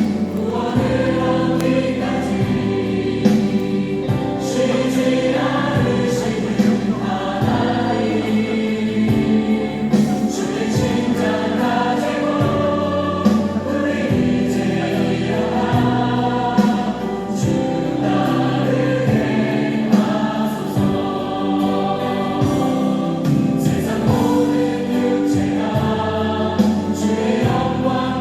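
Choir singing a Christian worship song with music underneath, steady throughout.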